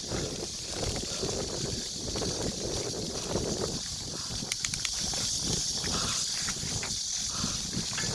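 Bicycle riding noise on a rough forest trail: tyres and frame rattling over the ground and wind on the microphone. There are a few sharp clicks about four and a half seconds in.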